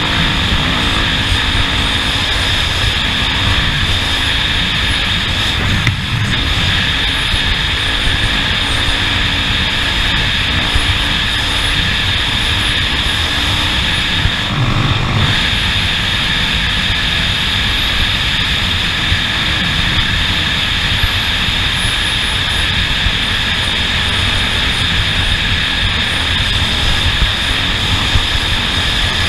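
A motor running steadily and loudly, with rushing wind noise and little change in pitch, as from a vehicle or a drone travelling over the track. There is a brief dip about halfway through.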